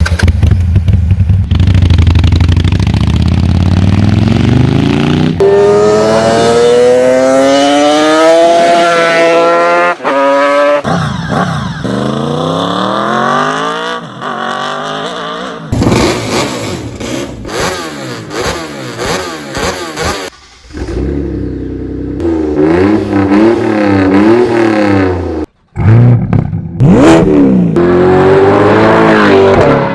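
A string of short clips of different V-configuration motorcycle and car engines revving, cutting abruptly from one engine to the next about every four to six seconds. Most clips are a rev rising in pitch.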